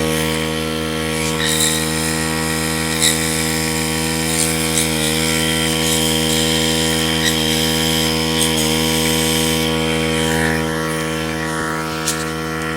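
Air compressor running steadily for the whole stretch: a constant, even hum that dips slightly in pitch a couple of times, with a few light clicks and taps on top. It is supplying the compressed air for blowing out the oil passages of a BMW M62B44TU crankshaft.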